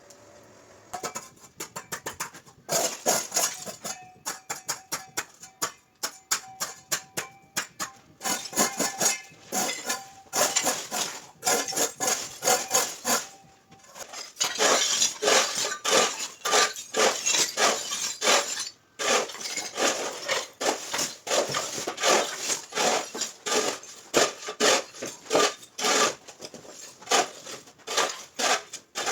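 Rapid, irregular clicking and clinking of hard objects striking each other, with a faint steady tone in the first half. About fourteen seconds in it pauses briefly, then runs on denser.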